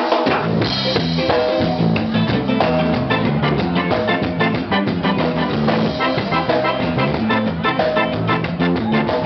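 Live band playing an upbeat instrumental intro to a doo-wop style song, with drum kit keeping a steady beat under a stepping bass line.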